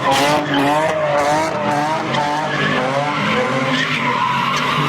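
Car doing a burnout, its tyres screeching against the pavement while the engine revs high, the pitch wavering up and down.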